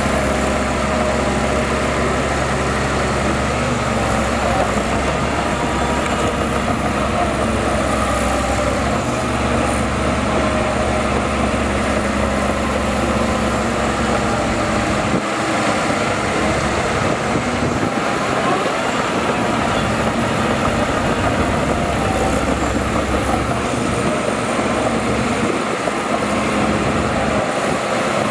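Heavy diesel earthmoving machinery running steadily under work, with a faint high whine wavering in pitch; the deep rumble thins out about halfway through.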